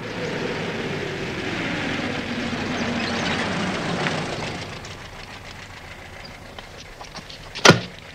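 A car engine running with its pitch falling as the car slows, then dying down to a low background. One sharp knock comes near the end.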